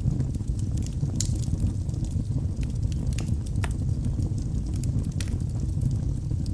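Wood logs burning in a fireplace: a steady low rumble of flame with scattered sharp crackles and pops, half a dozen or so spread through the few seconds.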